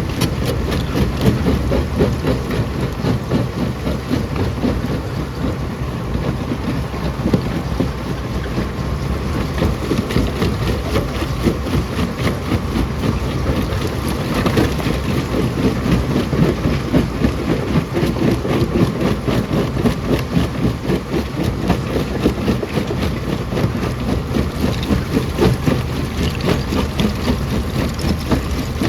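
Rock crusher working: a steady heavy machine rumble with a dense, rapid clatter and knocking of stones being broken.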